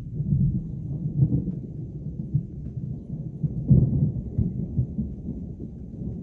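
Thunder from a strong thunderstorm, a low rolling rumble with louder crackling surges about a second in and again a little past halfway.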